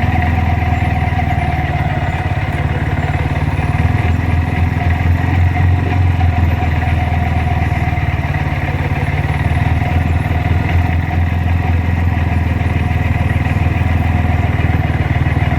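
Car engine running steadily at low speed with a deep low rumble that swells slightly a few seconds in, as a car is brought into a parking spot.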